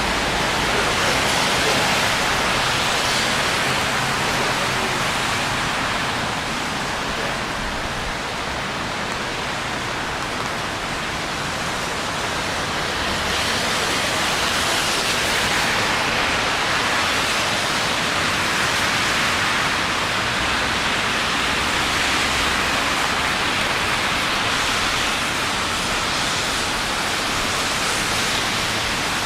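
Steady hiss of rain falling on a city street, an even rushing noise that eases slightly for a few seconds and then builds back.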